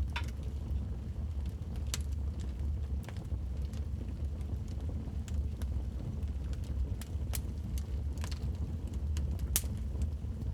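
Wood fire burning in a fireplace: a steady low rumble of flames with scattered sharp crackles and pops, the loudest about two, seven and nine and a half seconds in.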